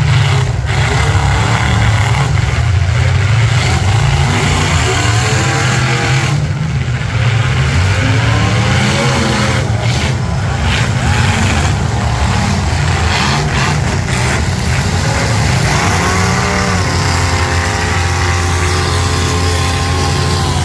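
Demolition derby cars' V8 engines running loudly together, revving up and down several times as they manoeuvre, with one engine held at a steady high rev near the end.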